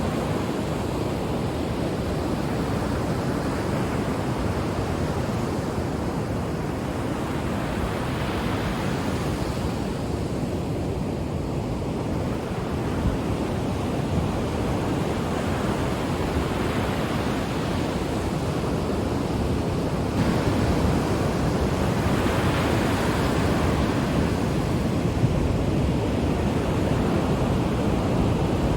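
Ocean waves breaking and washing up on the shore, a continuous surf rush that swells and eases every few seconds, with wind on the microphone.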